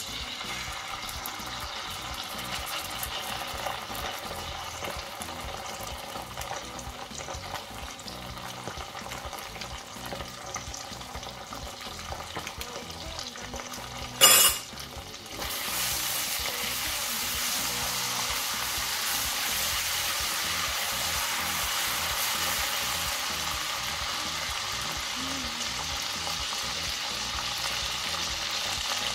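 Tomato paste frying in melted butter and garlic in a stainless steel pan, with a steady sizzle that is louder in the second half. About halfway through there is a single brief, loud burst, and the sizzle drops out for a moment after it.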